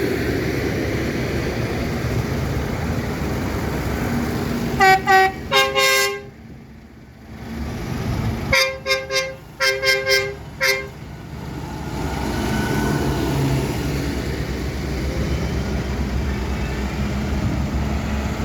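Vehicle horns tooting in quick short blasts, a few about five seconds in and a longer run of toots from about nine to eleven seconds, over the steady running of tractor engines.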